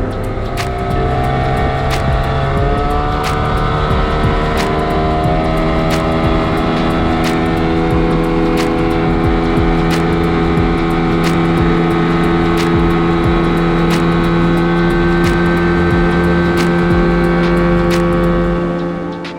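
A small boat's engine running under way, rising in pitch about two seconds in and then holding a steady speed, with regular sharp knocks through it. It dies away at the very end.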